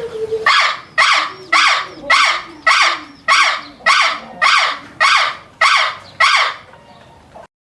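A large bird giving a harsh call over and over, about eleven times at a steady pace of a bit under two a second, then breaking off.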